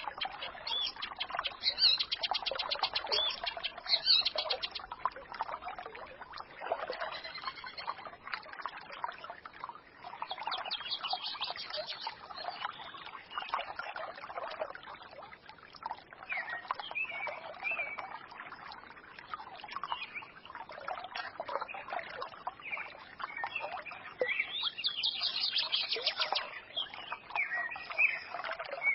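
Small forest stream trickling and babbling, with songbirds chirping and trilling over it; bursts of rapid high trills come about a second in, around eleven seconds in, and near the end.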